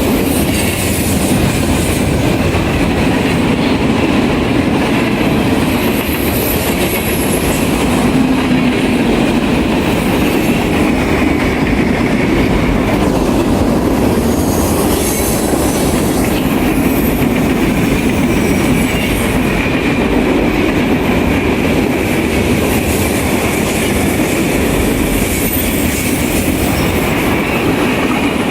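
Railroad cars rolling past, a loud steady rumble and wheel clatter on the rails, with a thin high wheel squeal that fades out midway and comes back later.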